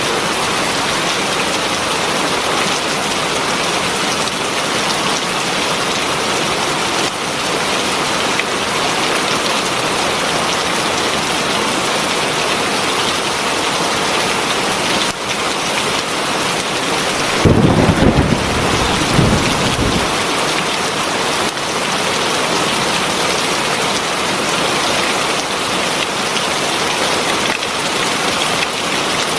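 Heavy rain falling steadily, a dense hiss, with a short low rumble of thunder about two-thirds of the way through.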